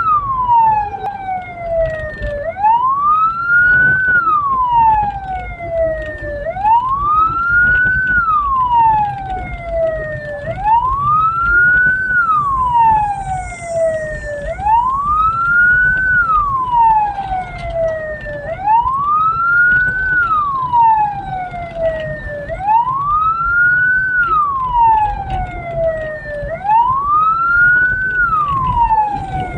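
Hearse siren wailing, each cycle rising quickly and falling more slowly, repeating about every four seconds over the low rumble of the vehicle on the move.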